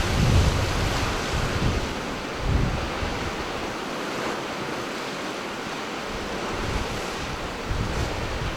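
Ocean surf washing steadily, with wind buffeting the microphone in low gusts at the start, about two and a half seconds in, and again near the end.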